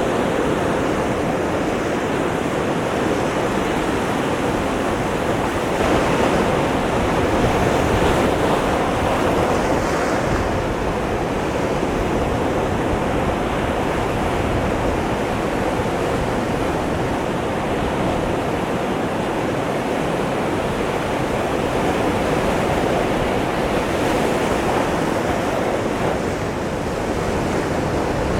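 Ocean surf breaking against a rocky shoreline: a steady wash of waves that swells slightly about six to ten seconds in.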